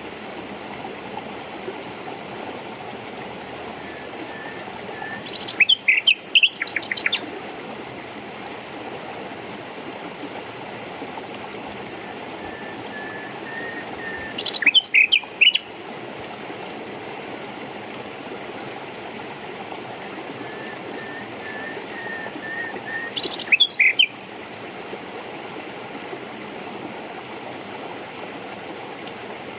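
A songbird sings three short, loud phrases of rapid chirps, about nine seconds apart, each led in by a soft run of quieter notes, over the steady rush of running water.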